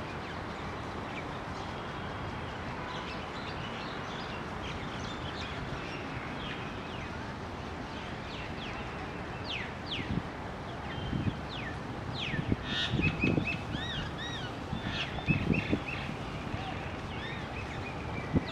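Small birds chirping and calling over a steady background hiss. The calls are quick falling whistles and short arched notes, growing busier in the second half, with some low thumps mixed in later.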